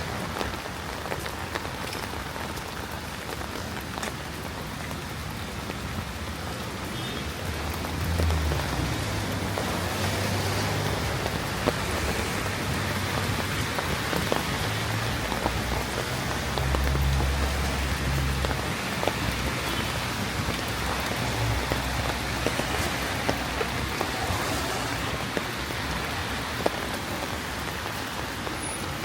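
Steady rain falling and pattering on surfaces, with scattered sharper drop ticks. A low rumble swells twice in the middle.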